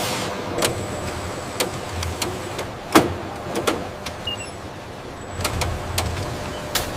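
Machinery running with a low steady hum, broken by irregular clicks and knocks; the loudest knock comes about three seconds in.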